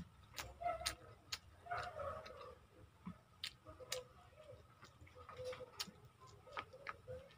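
Close-miked eating sounds: faint, irregular wet mouth clicks and smacks of chewing milkfish and rice eaten by hand.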